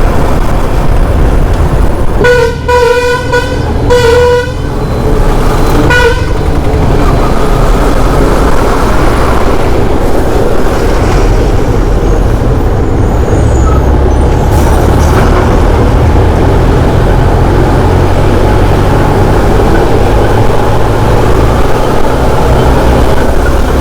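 Steady road and wind noise of a moving motorcycle, with a vehicle horn sounding three times in the first several seconds: two honks of about a second each and a short toot.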